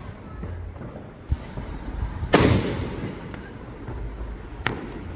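Fireworks going off: one loud bang with a short crackling tail about two seconds in, between a smaller pop and a sharp crack, over a low background rumble.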